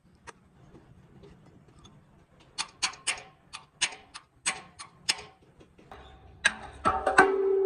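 A quick series of sharp, light taps, about a dozen over two and a half seconds, then a few louder knocks and a steady hum that starts near the end.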